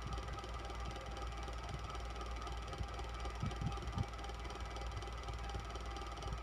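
Electric fan running steadily, a whir with a low hum and faint steady tones. A few soft low knocks come near the middle.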